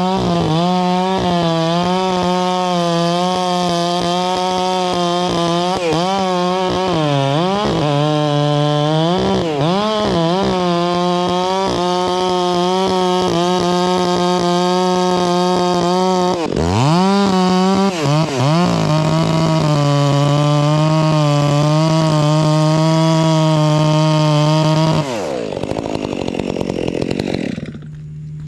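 Chainsaw making the second-side felling cut in a large white oak, running at full throttle with its pitch dipping and recovering several times as the bar loads in the wood. About 25 s in the throttle is let off and the engine drops back to idle.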